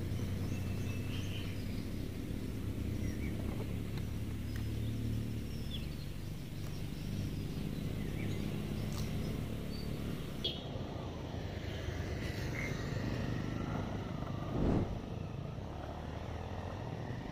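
Motorcycle engine running steadily at low revs, with faint high chirping over it. There is a single thump about fifteen seconds in.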